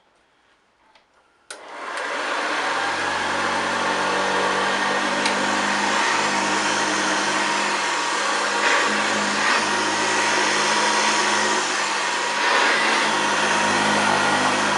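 1962 Hoover Senior 652A upright vacuum cleaner switched on with a click about a second and a half in. Its motor spins up within about a second and then runs steadily.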